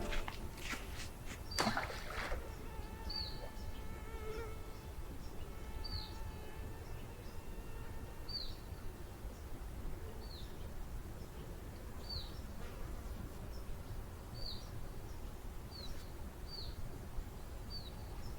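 A bird repeats a short, high, falling chirp about ten times, every second or two. In the first half a mosquito whines close to the microphone for several seconds.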